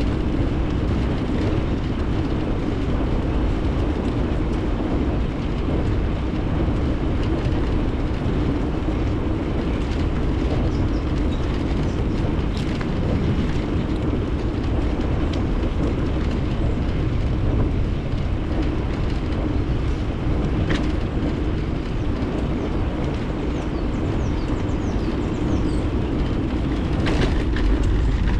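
Steady rumble of a bicycle rolling along, with tyre noise and wind on the action camera's microphone, and a few light clicks and rattles from the bike.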